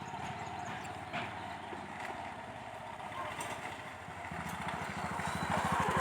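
A motor running with a steady, fast pulse, growing louder over the last couple of seconds.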